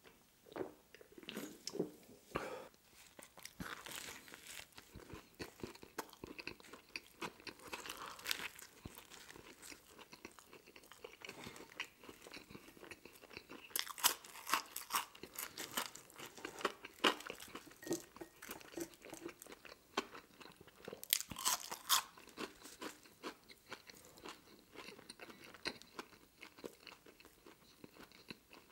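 Close-miked eating: a few swallows from a soda can at first, then steady chewing of a toasted sandwich. Crunchy bites stand out about 14 seconds in and again about 21 seconds in.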